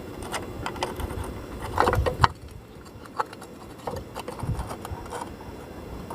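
Hand tools working on a motorcycle's chain cover and sprocket fittings as they are tightened: scattered metallic clicks and clinks, with a louder cluster of knocks about two seconds in.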